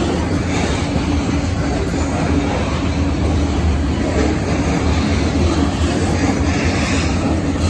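CSX freight train's covered hopper cars rolling past on the rails: a steady rumble of wheels on track.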